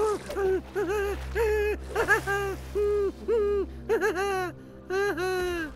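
A high-pitched wordless voice in a quick run of short sing-song syllables, over a low steady hum.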